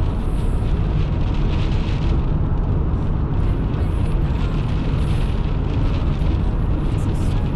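Steady low rumble of a car driving on a snowy highway: tyre and engine noise, even and unchanging.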